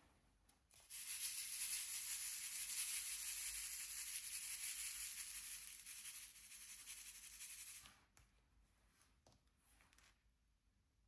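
A steady rustling, rubbing hiss from diamond-painting materials being handled, lasting about seven seconds before it stops.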